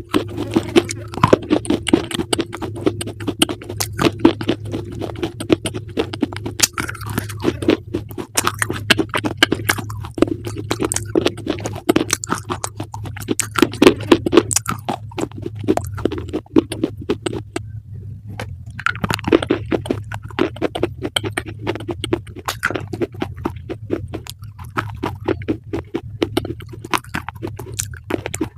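Close-up crunchy chewing: rapid, irregular crunches of something being bitten and ground, with brief pauses about eight and eighteen seconds in.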